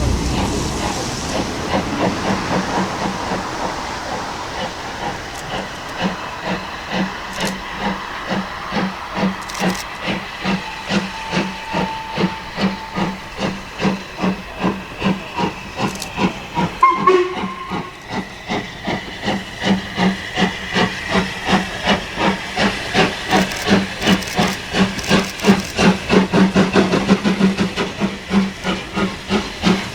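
Steam locomotive working a train, its chimney exhaust beating in an even rhythm of about two to three beats a second that grows louder towards the end. A short whistle toot sounds about halfway through.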